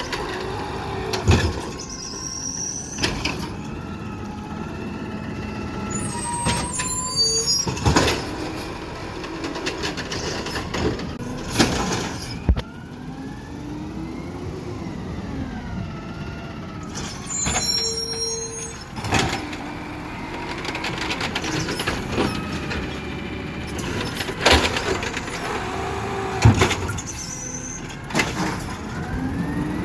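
Garbage truck at work: the engine revs up and down repeatedly, with sharp knocks and clanks throughout and short high squeals twice.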